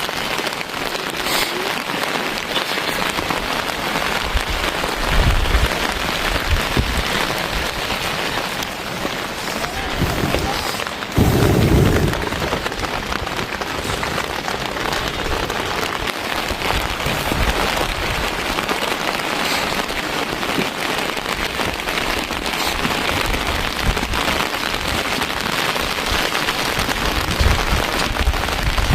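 Steady rain pouring down and pattering on surfaces, with a brief low rumble about eleven seconds in and fainter low surges a few times.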